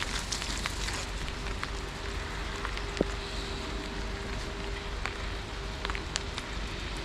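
Steady rain falling, with scattered drops ticking close by and a single sharp click about three seconds in.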